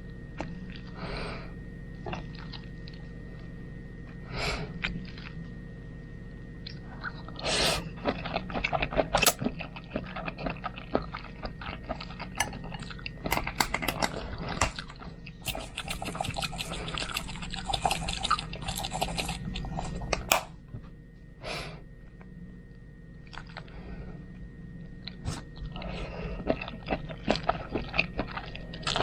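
A person chewing a mouthful of spaghetti close to the microphone: wet mouth clicks and smacks, sparse at first, then dense and continuous for a long stretch, easing off briefly and starting again near the end. A faint steady hum lies underneath.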